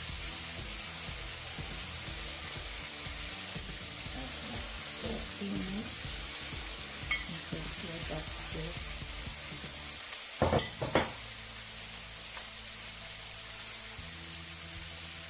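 Potato slices and turkey steaks sizzling steadily as they fry in sunflower oil, with a couple of sharp knocks about ten seconds in.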